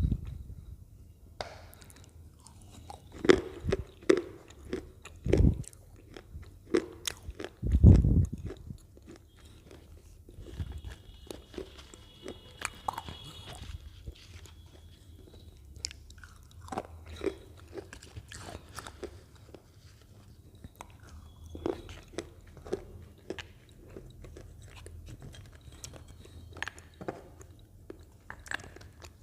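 Close-up crunching of Lay's potato chips being bitten and chewed. Several loud, sharp bites come in the first eight seconds, followed by quieter scattered chewing crunches.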